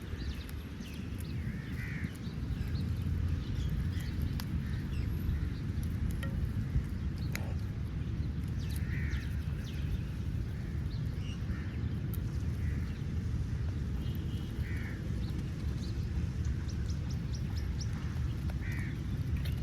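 Crows cawing now and then, a single short call every few seconds, over a steady low outdoor rumble.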